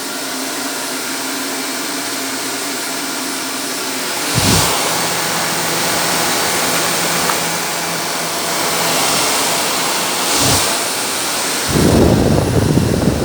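Shark upright vacuum cleaner running steadily as it is pushed over a pile of long hair, with two brief knocks and a loud low rumble near the end.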